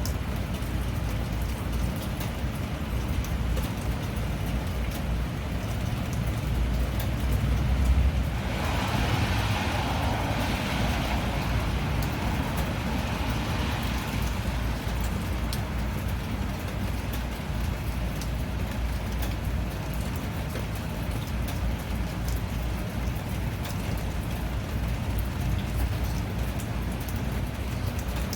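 Steady rain, with fine drop ticks over a deep low rumble. About eight seconds in, a louder rushing hiss swells up and fades away over several seconds.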